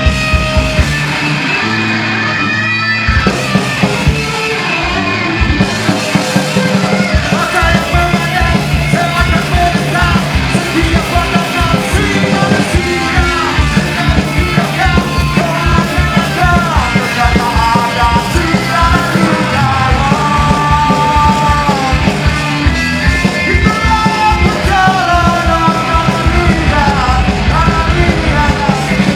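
Live punk rock band playing loud: distorted electric guitar, bass and fast, driving drums. The guitar starts almost alone, and the full band with drums comes in at about three seconds.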